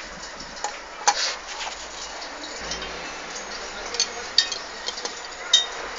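Scattered sharp metallic clinks and taps, about five louder ones among smaller ticks, some with a short ring, from tools and engine parts being handled during motorcycle engine repair work.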